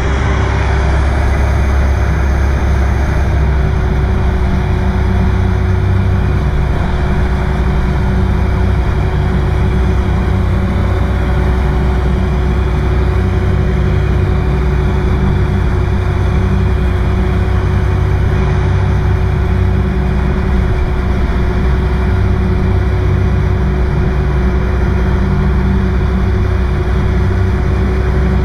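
Boat engine running steadily at a constant speed: a loud, even low drone that does not change pitch.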